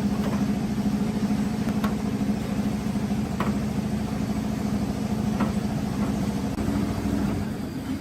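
An engine running steadily at an even speed, with a few faint clicks over it; the sound changes shortly before the end.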